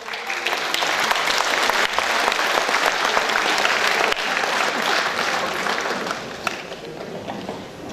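Concert-hall audience applauding, a dense clapping that starts right away and dies down over the last couple of seconds.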